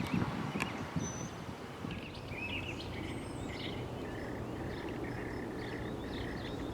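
Birds chirping, with a run of short repeated notes from about two seconds in, over a steady low rumble of background noise.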